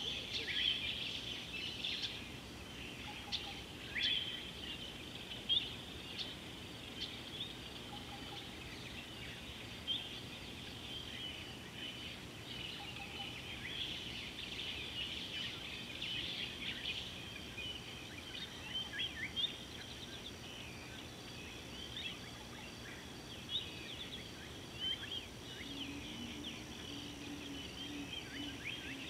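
A chorus of many wild birds calling over the water, a dense run of quick chirps and trills with a few louder single calls. About halfway through a steady high-pitched whine joins in, and a faint low hum comes in near the end.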